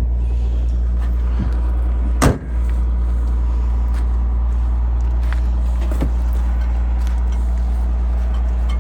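Steady low hum of a car engine running, unchanging throughout, with a single sharp knock a little over two seconds in.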